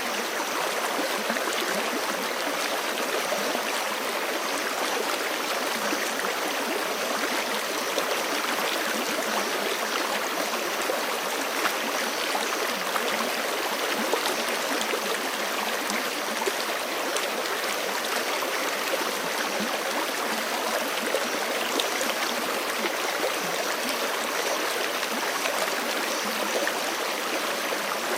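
Forest creek running over rocks: a steady rush of flowing water with gurgling and trickling, even in level throughout.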